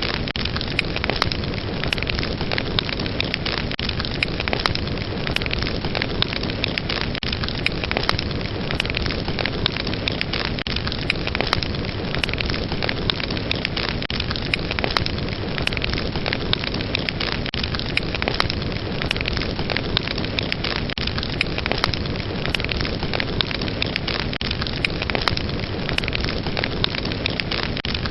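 Fire burning steadily with a dense roar of flames and many sharp crackles and pops scattered throughout.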